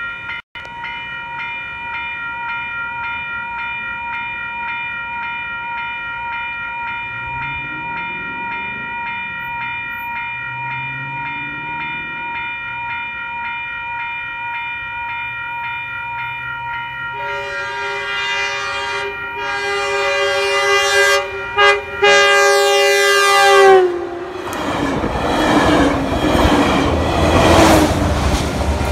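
Grade crossing warning bells ring steadily. Then, a little more than halfway through, a Metrolink commuter train's horn sounds as it approaches: a long blast, a short one and another long one, the pitch dropping slightly as the locomotive reaches the crossing. The train then passes at speed, with loud rumbling and wheel noise on the rails.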